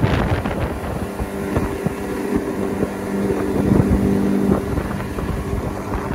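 An engine running steadily under rough wind noise on the microphone, with a steady hum setting in about a second in.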